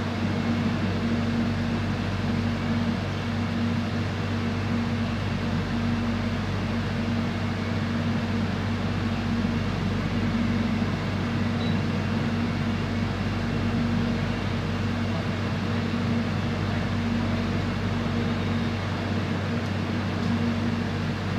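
Cabin noise of an electric airport train in motion: a steady hum and rumble with a constant low drone that holds even throughout.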